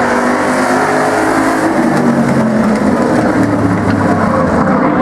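Several demo stock cars' engines running hard in a race, their overlapping engine notes rising and falling.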